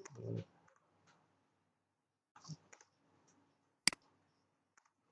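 A single sharp computer click, a mouse button or key press, about four seconds in, with a few fainter clicks around two and a half seconds and a brief low voice murmur at the very start.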